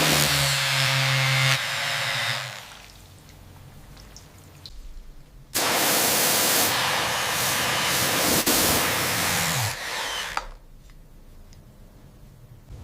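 Two long bursts of loud hissing noise from a rust-removal tool, each starting and stopping abruptly. A low hum runs under the first burst, and a short falling hum comes near the end of the second.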